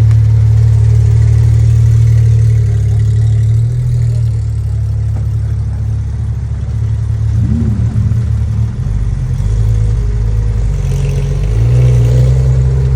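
A car engine running with a deep, loud low rumble that shifts in pitch and level a few times, as in light revs from idle.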